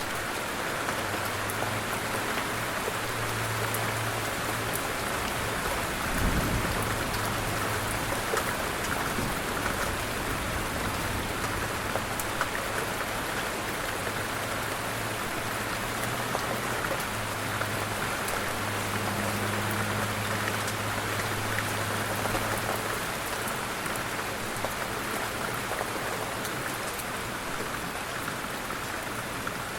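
Light rain falling steadily, a close even patter with fine individual drop ticks. A low hum rises and fades in the background for much of the time, and there is a single dull low thump about six seconds in.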